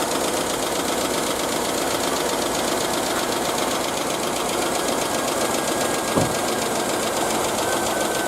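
2007 Chevy Avalanche's V8 engine running steadily with a fast, even ticking, and one short knock about six seconds in.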